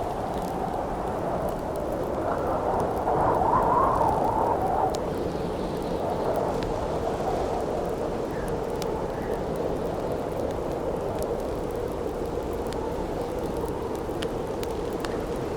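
Wind howling steadily, swelling in a gust about three seconds in and easing off again, with sparse crackles and pops from a wood campfire.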